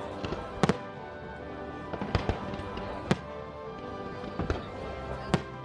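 Fireworks bursting over the lake with music playing. There are sharp bangs about half a second in (a quick double), a couple around two seconds, one at three seconds, and more near four and a half and five seconds.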